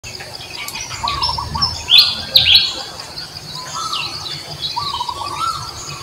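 Birds chirping and whistling, with two loud falling chirps about two seconds in and softer arched whistles throughout.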